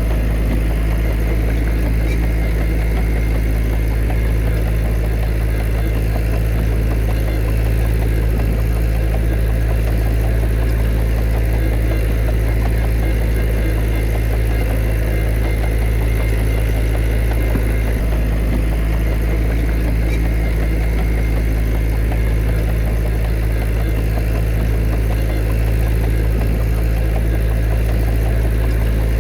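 Heavy diesel engine of earthmoving machinery running steadily at an even pitch, a constant low drone with no revving or impacts.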